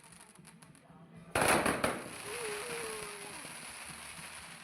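Fireworks going off: a few faint pops, then about a second in a loud burst of bangs lasting about half a second, trailing off into fading crackle.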